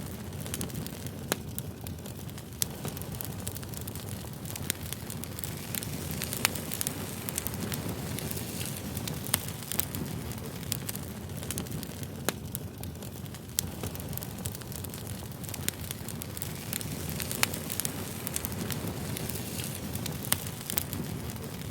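Campfire crackling: a steady low rush of burning wood with sharp pops and snaps at irregular moments throughout.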